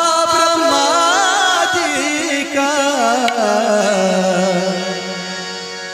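Male singer drawing out a long, wavering melismatic phrase of a Marathi gavlan, a devotional folk song, growing quieter toward the end.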